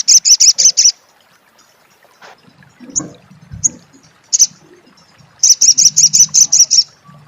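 Olive-backed sunbird giving its rapid chattering 'crecet' call: a fast trill of sharp, high notes, about eight a second, at the start. A few single chips follow, then a longer trill near the end.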